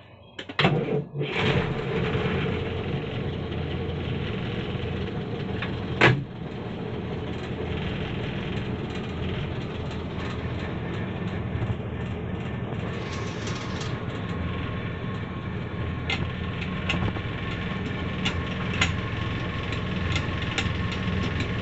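Series Land Rover engine cranked and started about half a second in, then idling steadily. A sharp clunk comes about six seconds in, and lighter clicks follow later as the gear lever is worked with the clutch pedal down.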